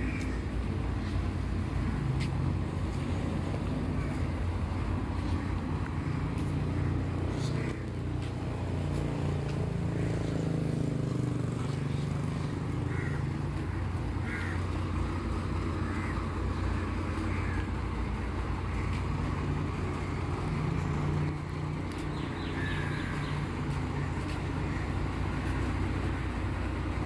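A steady low engine rumble, with faint short sounds over it.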